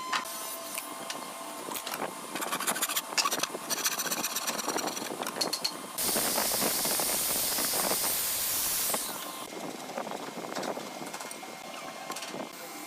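A burst of compressed air hissing for about three seconds, starting and stopping abruptly, after several seconds of clicks and scraping from work at the bench.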